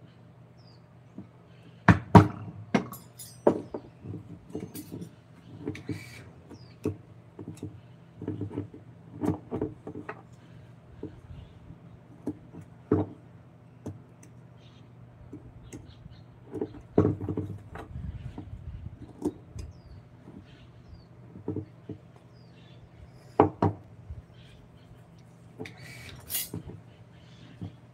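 Irregular knocks and taps of hand tools on wood, over a steady low hum.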